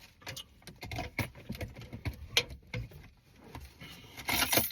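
Close-miked chewing of a mouthful of sandwich: irregular small wet clicks and crackles, with a louder rustling burst near the end.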